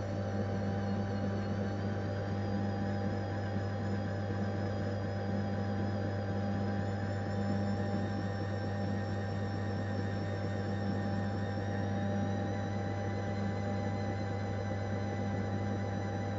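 AEG Öko-Lavamat 693 washing machine running a 95 °C boil wash: a steady low electrical hum with a slowly pulsing drone above it, and several thin whining tones higher up that drift slowly upward in pitch.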